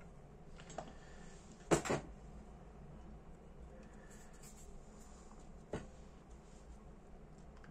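Handling noise from small parts and tools on a workbench: a few sharp clicks and knocks, the loudest a quick double knock about two seconds in and another click near six seconds, over a low steady hum.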